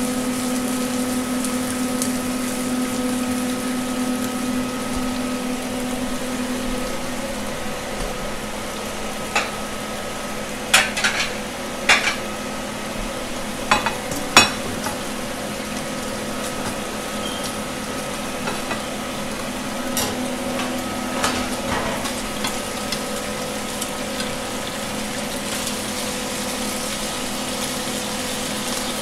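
Chopped garlic and onion sizzling steadily in oil in a nonstick frying pan, over a constant hum. A few sharp knocks of cookware and utensils come about ten to fifteen seconds in, and a few softer ones later.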